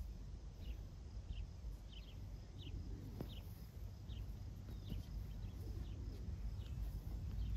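A bird calling with short, downward-sliding chirps repeated every half second or so, over a low steady rumble.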